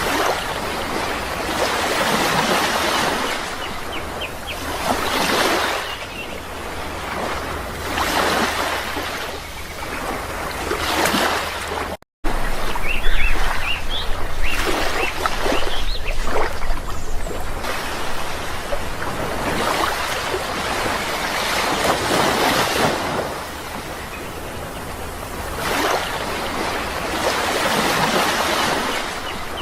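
Sea waves breaking and washing in, swelling and fading every few seconds, with a brief cut to silence about twelve seconds in.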